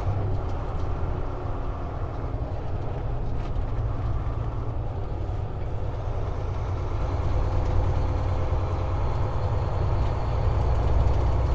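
Volvo semi-truck's diesel engine and road noise heard from inside the cab while driving, a steady low rumble.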